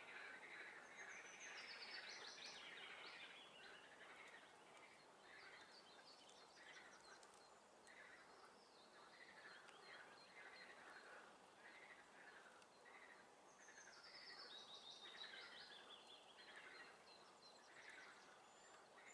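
Faint swamp chorus: frogs calling over and over about twice a second, with songbirds singing. A bird's descending trilled song comes twice, about a second in and again about three quarters of the way through.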